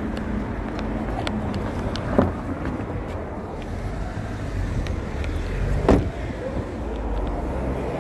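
A vehicle engine idling steadily with a low rumble. Two sharp knocks stand out over it, one about two seconds in and a louder one near six seconds.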